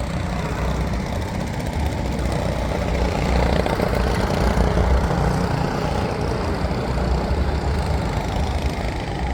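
Go-kart engine running steadily with a low rumble, a little louder around the middle.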